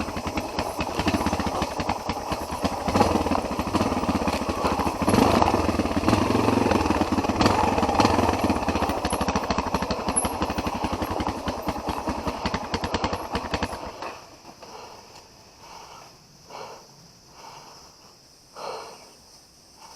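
Single-cylinder trail motorcycle engine running, a rapid even pulsing with clatter from the bike, cutting off suddenly about fourteen seconds in. After that only faint scattered rustles.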